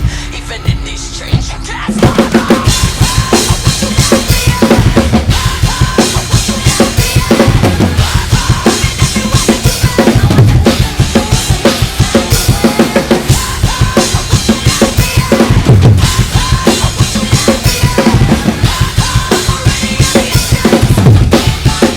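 Drum kit played to a heavy metal track, the kick drum and snare hitting in a fast, steady pattern. It starts after a quieter passage of a few scattered hits, about two seconds in.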